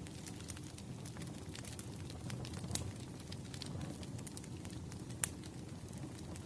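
Firewood burning: a steady low rumble of the fire with frequent sharp crackles and pops, one louder pop about five seconds in.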